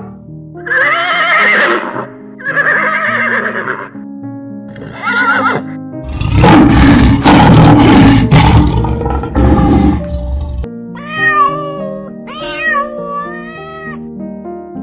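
Background music with animal calls laid over it: a few short pitched calls first, then a lion roaring loudly for about four seconds, then a cat meowing several times.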